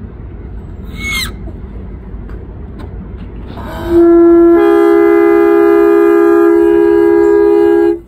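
Train air horn sounding one long, loud blast: a single note starts a little before halfway, the other chimes join to form a steady chord, and it cuts off sharply near the end, over a low rumble.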